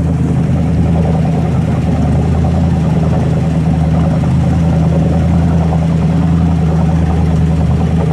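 Jet boat engine running steadily at a constant pitch, with no change in speed.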